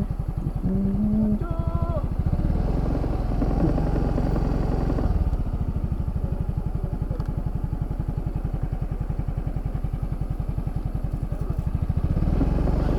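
Yamaha Fazzio scooter's single-cylinder engine running steadily while riding, its firing pulses even throughout. A brief stepped tone sounds over it about a second in.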